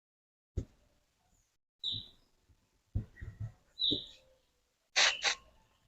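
A bird chirps briefly twice in the background, over a click and a few soft knocks from handling the freezer fan. Near the end come two short hissing bursts of WD-40 aerosol sprayed onto the fan to lubricate it.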